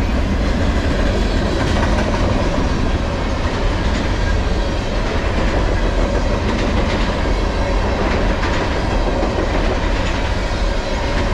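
Freight train of container-carrying flatcars rolling past at close range: a steady rumble of steel wheels on rail, with scattered clicks as the wheels cross rail joints.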